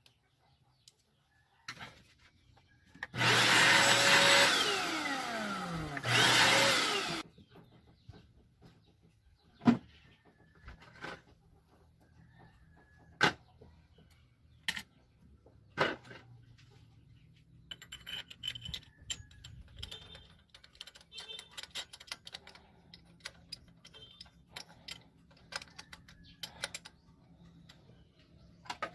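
A small electric motor runs in two bursts of a few seconds, the first winding down in pitch as it stops. Scattered sharp clicks and light rattling follow.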